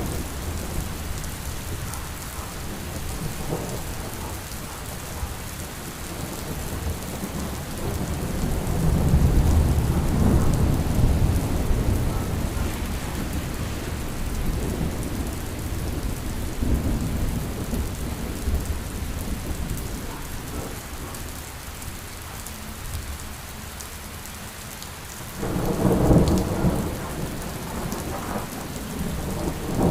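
Steady rain falling, with thunder rumbling low underneath: one long roll swelling about a third of the way in, and a sudden louder peal a few seconds before the end.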